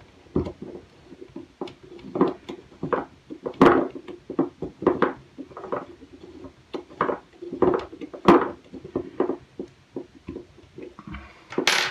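Irregular small metal clicks and taps as the hinge pin is pushed through a 9mm barrel and threaded into a Bond Arms derringer's frame to mount the barrel.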